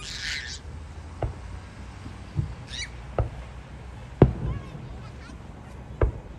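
Fireworks bursting: five sharp booms at irregular intervals, the loudest a little past four seconds in. Brief high squealing sounds come at the start and again near three seconds.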